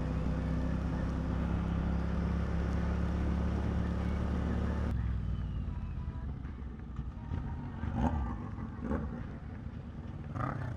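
Royal Enfield Interceptor 650's parallel-twin engine running at a steady cruise, heard with wind noise on a helmet mic. About five seconds in the sound drops off sharply to a quieter running sound, with a few short knocks near the end.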